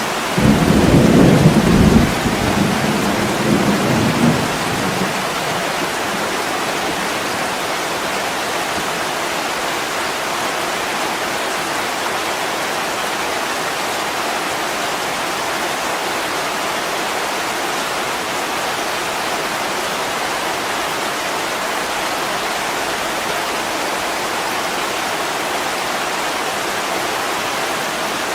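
Heavy rain falling steadily on a window, with a roll of thunder that breaks in about half a second in, rumbles loudest for a second or two and dies away within about five seconds.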